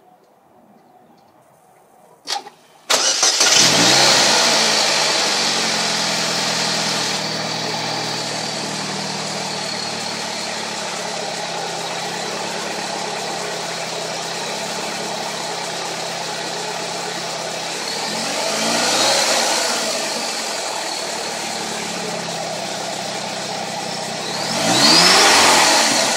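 Supercharged car engine with a TVS supercharger on a freshly fitted 2.7-inch pulley, started for the first time: a brief crank, then it catches about three seconds in with a high idle and a supercharger whine that settle to a steady idle through a 3-inch header-back exhaust. It is revved twice, about two thirds of the way in and near the end, the whine rising and falling with each rev.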